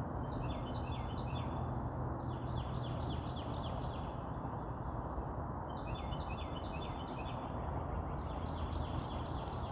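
A songbird singing four short songs a couple of seconds apart, each a quick run of repeated high, down-sliding notes, over a steady low background noise.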